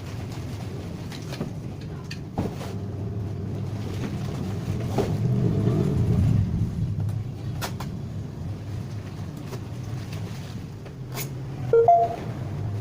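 Washing machine motor running with a steady low hum that swells louder for a few seconds in the middle. A few light clicks sound over it, and there is a short squeak near the end.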